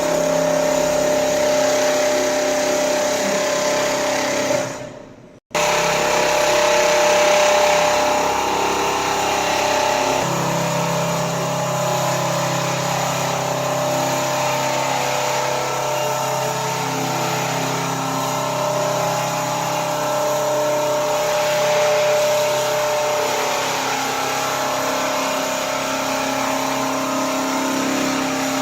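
Richpeace single-head quilting machine running steadily, a continuous mechanical whir with a constant hum. The sound drops out briefly about five seconds in, and a deeper hum joins about ten seconds in.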